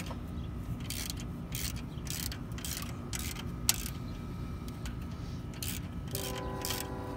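Irregular metallic clicks and clinks of hand tools working a valve spring compressor on an LS V8's valve springs, over a low steady hum. A short ringing tone sounds near the end.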